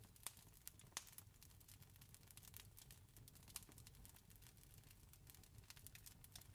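Campfire crackling faintly: irregular small snaps and pops of burning wood, a few louder ones, over a soft low rumble.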